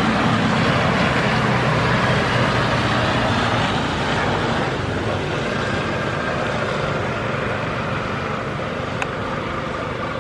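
Boeing 787 Dreamliner's jet engines running loud and steady, slowly growing fainter. A single short click about nine seconds in.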